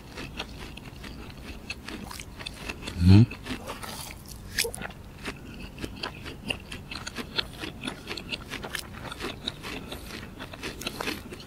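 Close-miked chewing and biting of mussels, with many small wet clicks and crackles of the mouth. A short hummed vocal sound comes about three seconds in.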